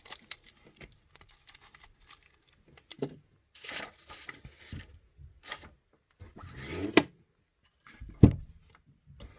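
Packaging rustling in short bursts, with light clicks and a couple of sharper knocks, as small spare hop-up parts are packed away.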